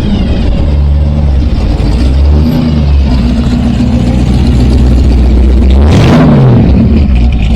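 Loud custom car engine running close by with a low, steady rumble, given a short throttle blip about six seconds in.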